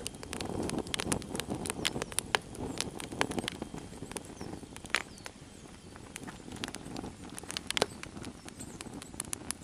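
Log fire (a Swedish torch, a sawn log burning from inside) crackling, with many sharp irregular pops over a low rushing of the flames that is strongest in the first few seconds.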